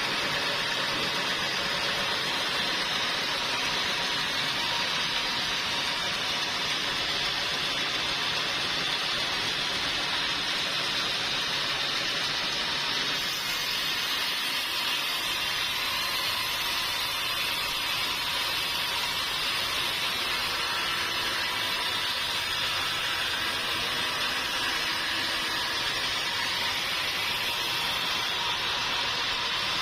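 Sawmill machinery running steadily: an even, hissing mechanical noise with no pauses or separate knocks.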